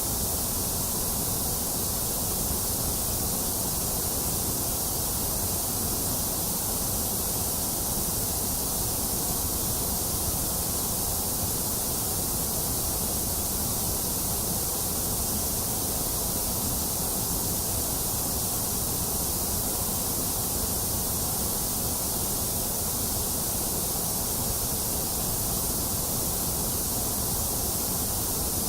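White noise: a steady, unchanging hiss that is brightest in the high treble.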